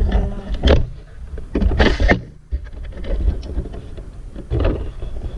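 Dirt bike being fired up: irregular loud bursts and thumps over a low rumble.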